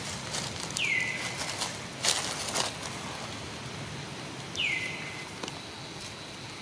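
A bird's whistled call, twice about four seconds apart, each note sliding down and then levelling off. A brief rustling burst about two seconds in.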